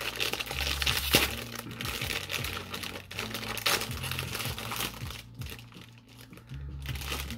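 Cupcake wrapper crinkling and rustling as it is handled and unwrapped, thinning out after about five seconds.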